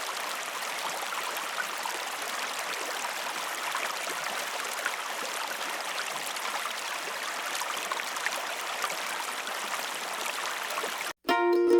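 Small flow of water trickling and splashing steadily, as from a pump-fed miniature diorama waterfall. It cuts off near the end, and plucked-string music begins.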